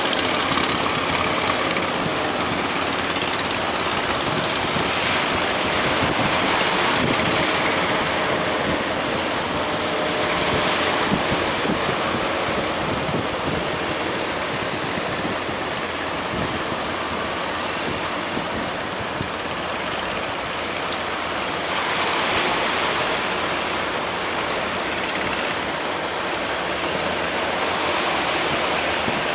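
Heavy ocean surf, large waves breaking, with a louder surge of crashing water every several seconds.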